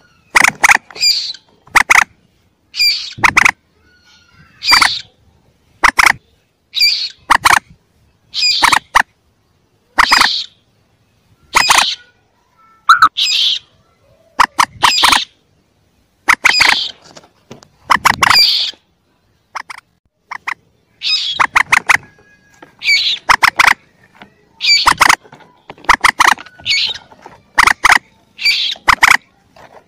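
Common moorhen calls, the calls of young birds played as a hunting lure: short, sharp, clicking calls repeated about every one to two seconds.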